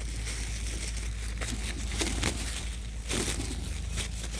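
Thin plastic dog-waste bags crinkling and rustling as they are pulled out and handled, with irregular crackles.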